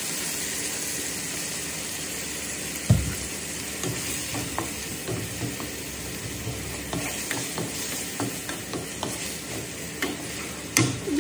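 Diced chicken sizzling in a nonstick frying pan with soy sauce just added, stirred with a wooden spatula that scrapes and clicks against the pan. There is a dull thump about three seconds in and a sharp tap near the end.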